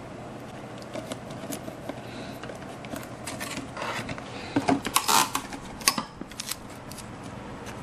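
Hands cutting and handling craft material with scissors: scattered snips, clicks and rustling, thickest about four to five seconds in, over a steady background hum.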